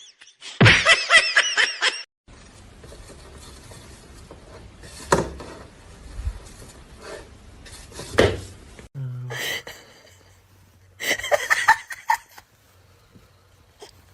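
A person laughing in short bursts, twice, with a quieter stretch between that holds low hum and two sharp knocks.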